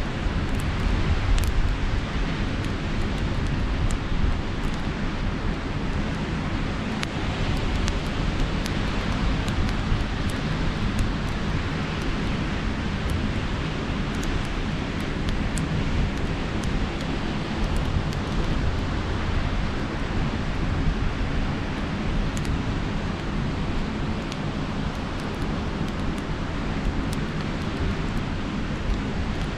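Campfire crackling with scattered sharp pops, over a steady rush of wind and sea surf.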